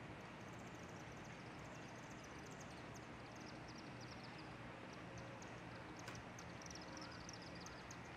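Faint outdoor ambience of small birds chirping in quick series of short, high, falling notes over a steady low background hum, with a single click about six seconds in.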